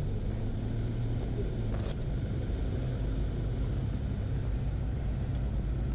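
Motorcycle engine running at low, steady revs, with a brief hiss about two seconds in.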